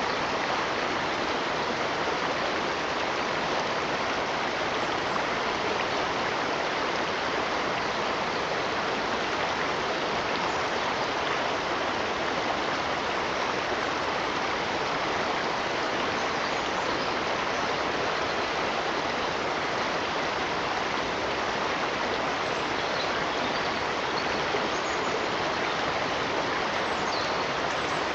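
Steady rushing of a flowing stream, with no change in level throughout.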